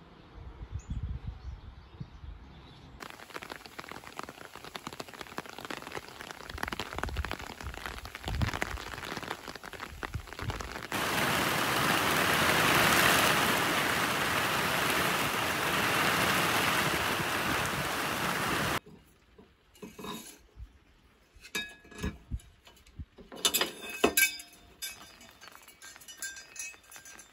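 Heavy, steady rain, the loudest part, which cuts off suddenly about two-thirds of the way through. Then a string of sharp clinks and rattles as bunches of white metal shelf brackets are handled and knocked together.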